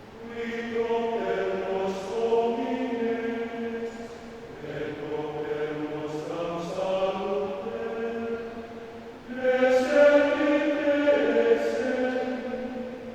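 Men's choir singing held chords in several parts, in phrases that swell and ease off; the loudest phrase comes in about nine and a half seconds in.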